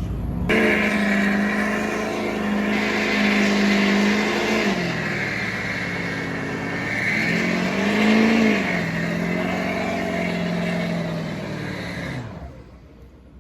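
A car engine held at steady high revs for several seconds. It drops, surges once more about eight seconds in, then falls away and shuts off near the end.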